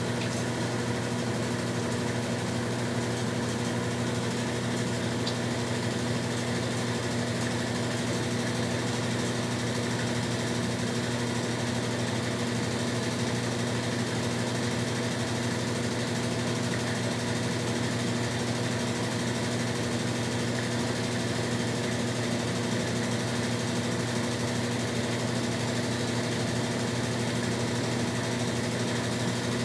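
Brastemp Tira Manchas Pro 12 kg washing machine running mid-cycle: a steady, even mechanical hum that holds one pitch throughout.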